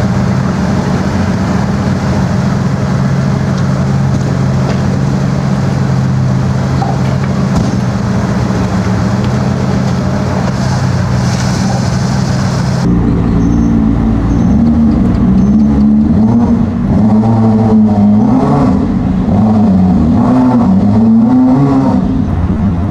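Motorboat engines running steadily, then, about halfway through, an engine whose pitch rises and falls again and again as the throttle is worked up and down.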